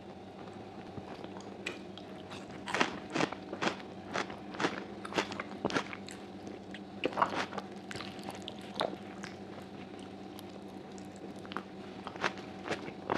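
Close-miked eating: biting and chewing pieces of stewed sheep's trotter, heard as bursts of sharp clicks and crunches in clusters, starting a couple of seconds in and again near the end. A faint steady hum runs underneath.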